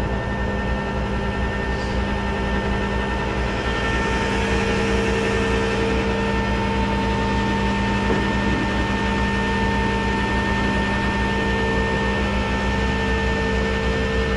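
A vehicle engine running steadily, with a constant whine over a low pulsing rumble and no change in speed.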